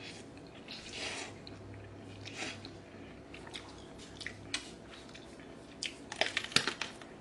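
Close-up eating sounds: a mouthful of soft rice noodles slurped in and chewed with a few wet clicks, then a quick run of sharp, crisp crunching bites near the end as she bites into a firm raw vegetable.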